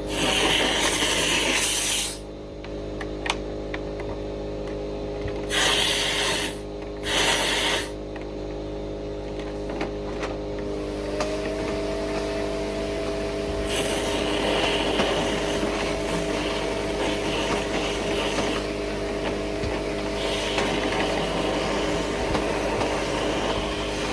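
A motor running steadily during dryer vent cleaning, with loud bursts of rushing, scraping noise: one at the start, then two short ones a few seconds later, and softer ones later on.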